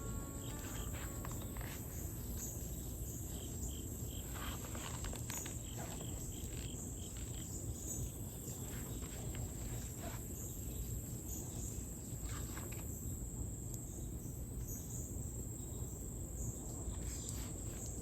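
Steady, continuous high-pitched insect chorus of crickets or similar insects, over a low, even background rumble.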